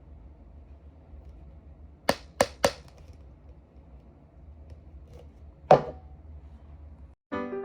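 Three quick sharp taps in a row, then a single louder knock a few seconds later, over a low steady hum. Piano music starts just before the end.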